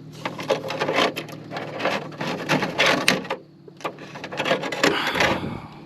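Plastic clips and hose fittings being handled and pressed back into place: a run of small clicks and knocks, with a short pause about three and a half seconds in.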